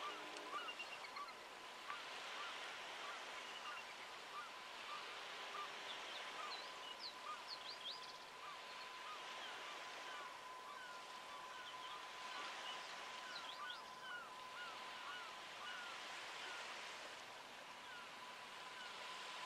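Birds calling outdoors: many short, quick chirps in scattered runs over a steady background hiss, with a thin steady high tone underneath.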